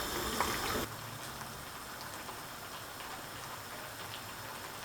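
Food sizzling in a pan: a steady fine crackling hiss. It drops to a quieter, even sizzle a little under a second in.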